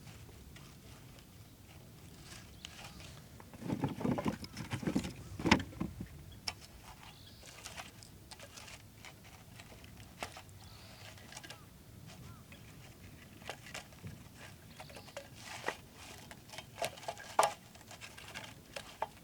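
Irregular clicks, taps and knocks of objects being handled, with a denser run of louder knocks about four to six seconds in and again near the end.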